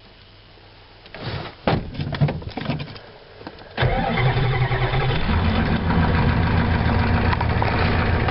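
A 1989 Ford F-250's 7.3L IDI V8 diesel being cranked by its starter for about three seconds, then catching about four seconds in and settling into a steady idle. This is a near-cold start on freshly fitted glow plugs, with no block heater plugged in.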